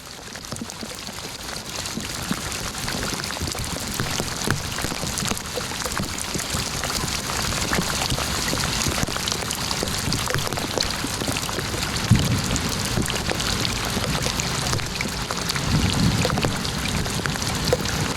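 Steady rain falling, dense with the tick of separate drops hitting a surface. Two brief low rumbles come through it, about two-thirds of the way in and again near the end.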